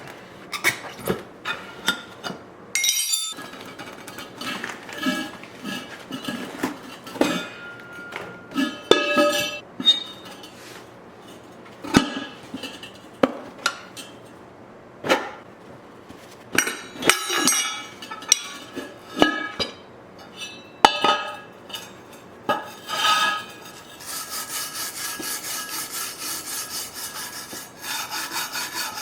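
Hand tools knocking and clinking on metal in irregular strikes, some with a brief metallic ring. Near the end this gives way to about five seconds of steady scraping.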